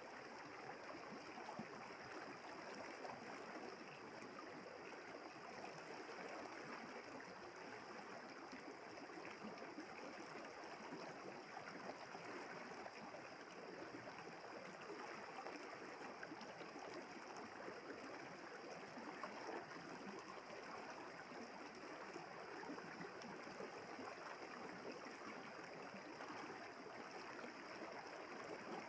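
River water flowing steadily, a soft, even rush and babble.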